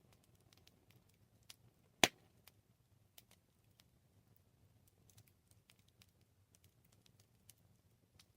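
Campfire crackling: scattered small snaps and ticks over a faint low background, with one loud pop about two seconds in.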